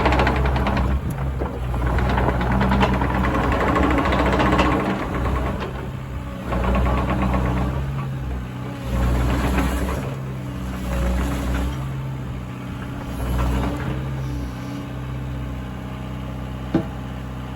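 Diesel engine of a JCB 55Z-1 mini excavator running, its loudness swelling and easing several times, with one sharp knock near the end.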